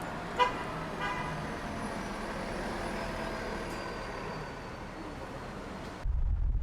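Steady street traffic noise, with two short high beeps about half a second and a second in. About six seconds in it cuts suddenly to the low rumble of wind on the microphone.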